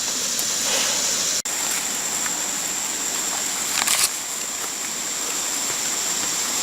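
Steady rush of flowing creek water. The sound drops out for an instant about a second and a half in, and there is a short scuffing noise near four seconds.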